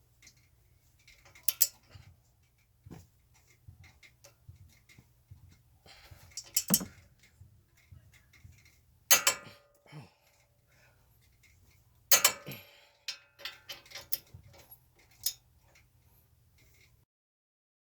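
Irregular metallic clanks and clicks of hand tools and metal parts being handled and set down, a few ringing briefly; the loudest come about nine and twelve seconds in.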